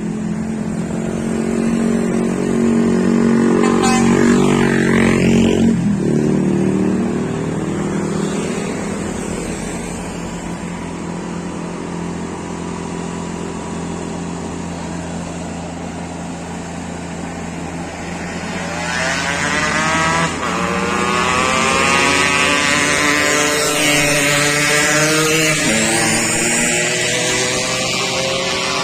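Scania container truck's diesel engine running under heavy load, its revs climbing steadily from about two-thirds of the way in as it pulls up the incline.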